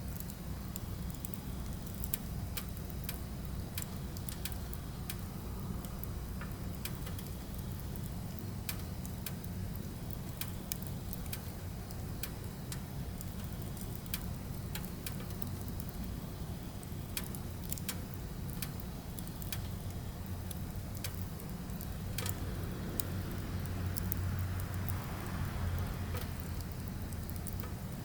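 Firewood burning, with irregular sharp crackles and pops over a low, steady rumble of flame. The rumble swells louder for a few seconds near the end.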